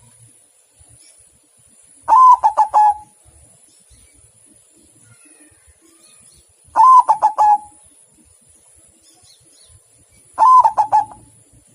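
White zebra dove (perkutut) cooing: three short song phrases about four seconds apart, each a quick run of notes with the first one higher.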